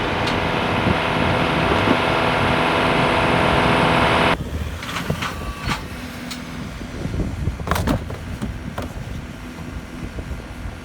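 Tractor engine running steadily at high revs. About four seconds in, the engine sound drops off abruptly, leaving a lower engine rumble with a few sharp knocks, the loudest about three-quarters of the way through.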